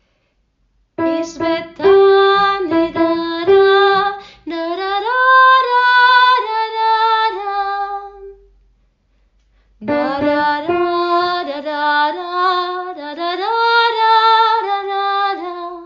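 A woman sings a short song melody that illustrates an ascending minor third, in two phrases with a brief pause between them. The first phrase rocks between a lower note and one a minor third above it.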